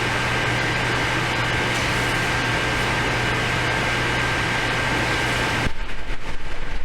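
Steady fan-like hiss with a low electrical hum and a faint steady whine, which cuts off suddenly near the end, leaving quieter clicks and handling noise.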